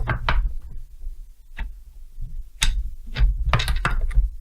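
Irregular sharp clicks and knocks of tools and chainsaw parts being handled, with a quick cluster of them near the end.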